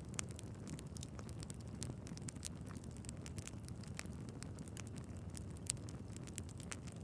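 Wood fire in a fireplace burning, with a steady low rumble of flames and frequent small crackles and pops from the logs; one sharper pop near the end.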